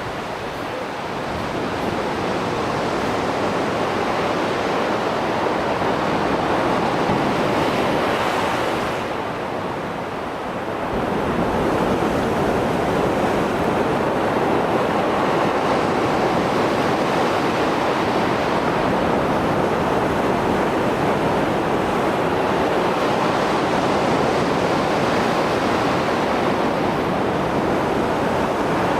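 Rough Mediterranean sea surf after a storm: waves breaking and washing ashore in a continuous rush, easing briefly about ten seconds in before the next set builds back up.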